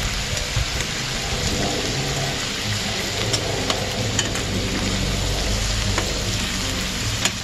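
Chicken and chicken liver pieces sizzling in hot oil in a stainless steel electric skillet, a steady frying hiss. A few light clicks come from metal tongs turning the pieces against the pan.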